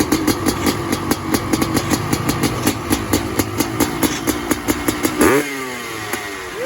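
Honda CR500 two-stroke single running cold at a lumpy idle, with an even popping beat of about four pops a second. About five seconds in, a throttle blip makes the revs rise sharply and die away, and a second blip starts at the very end.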